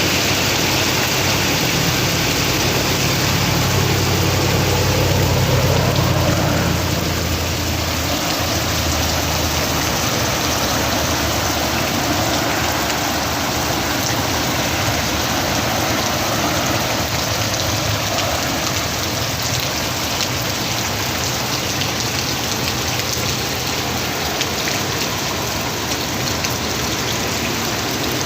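Heavy rain pouring steadily onto surfaces, with a low rumble underneath that fades out after the first several seconds.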